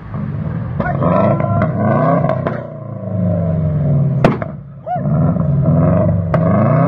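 Subaru Forester's flat-four engine revved hard again and again while standing still, with sharp backfire bangs from the exhaust, which throws flame. The loudest bang comes a little past four seconds in.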